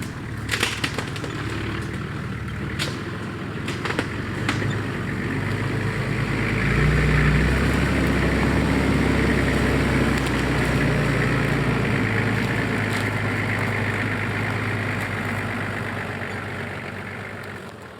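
Nissan Patrol GU four-wheel drive being driven, a steady engine and road noise with a few sharp knocks or rattles in the first few seconds. It grows louder about six seconds in and dies away near the end.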